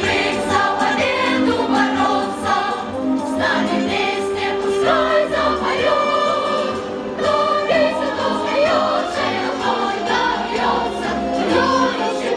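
Choral singing with instrumental accompaniment: a song played throughout.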